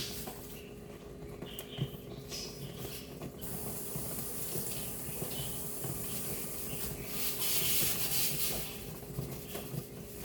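Kitchen tap running, the water hiss starting about three and a half seconds in and growing louder near the end, as a spoon is rinsed, over a faint steady hum and a few light knocks early on.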